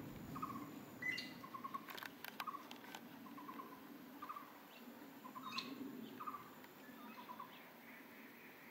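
A bird calling with short trilled chirps, each a quick run of notes, repeated every half second to a second. A few sharp clicks come about two seconds in.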